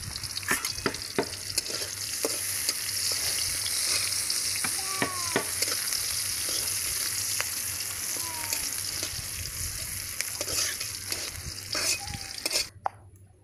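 Sliced onions sizzling in hot oil in a steel kadai, with a steel spatula scraping and clicking against the pan as it stirs. The sound cuts off abruptly near the end.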